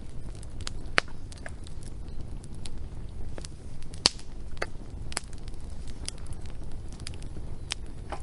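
Wood fire crackling, with irregular sharp pops and snaps, the loudest about a second in and about four seconds in, over a steady low rumble.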